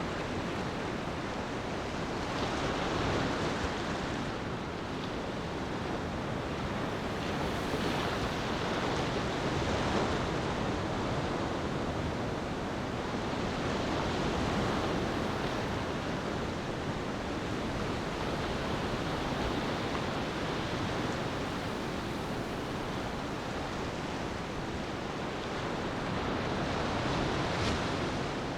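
Ocean waves washing onto a beach: a continuous surf hiss that swells and ebbs every few seconds.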